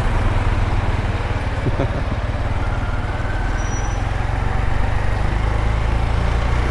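Steady low engine and road rumble of a vehicle being driven.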